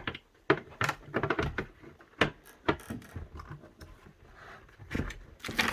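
Irregular knocks and clatter of food containers being taken out of and moved around in a plastic storage bin, a dozen or so sharp hits spread unevenly.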